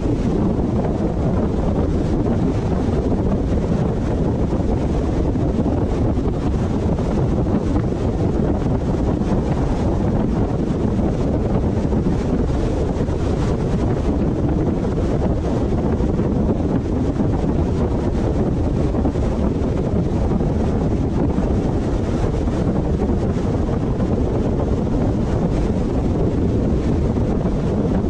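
Steady wind and road noise from a moving car, a low even rumble with wind buffeting the microphone.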